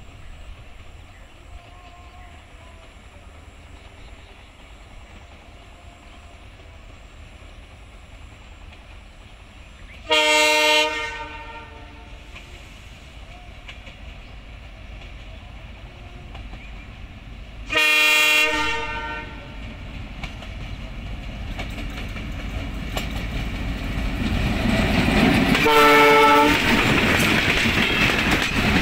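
Intercity express train's diesel locomotive sounding its multi-tone horn three times as it approaches: two blasts of about a second each, seven or eight seconds apart, then a shorter one. Under the horn, the train's rumble grows steadily louder and turns into wheels clattering over the rail joints as the coaches pass close by near the end.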